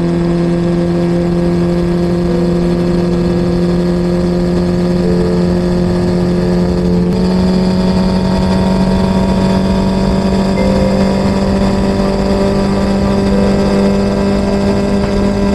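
An engine held at steady high revs. Its pitch steps up slightly about seven seconds in.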